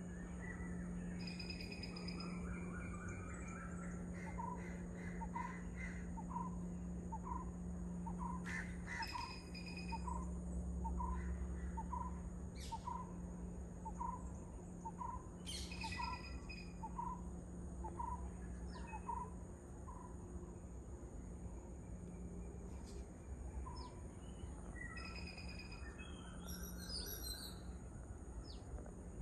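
Wild birds calling: a series of short, evenly spaced notes about two a second through the middle, with other brief calls now and then. A steady high-pitched drone runs underneath.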